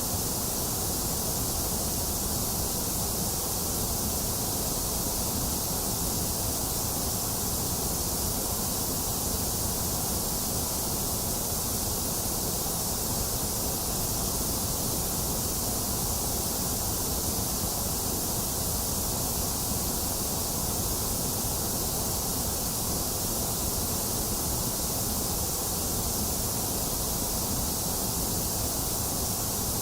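Box fan running steadily together with rain: an even, unchanging hiss with a low rumble beneath, and no separate drops, knocks or thunder.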